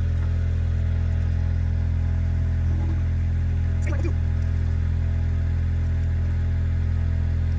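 An engine running at a steady, unchanging speed. A brief faint squeak comes about four seconds in.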